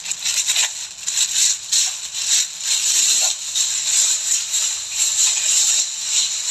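Continuous dry rustling and crackling, made of many quick scratchy crackles.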